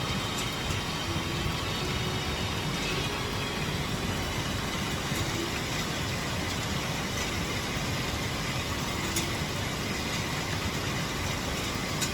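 Heavy rain falling in a steady, even hiss, with a few sharp ticks.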